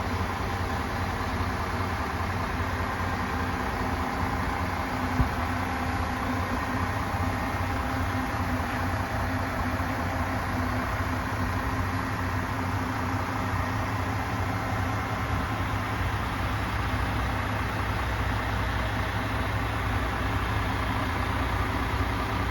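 MAN TGS 28.430 truck's six-cylinder diesel engine running steadily at idle, with one short click about five seconds in.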